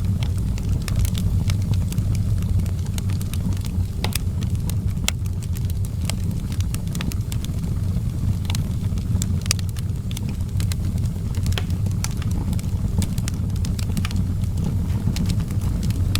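Outdoor wood fire burning, with frequent irregular sharp crackles and pops over a steady low rumble.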